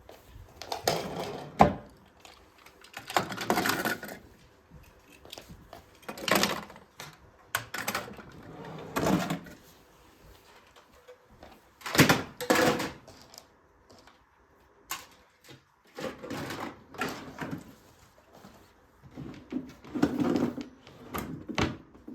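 Kitchen handling sounds: a series of short clatters and scrapes every few seconds, as utensils and dishes are handled.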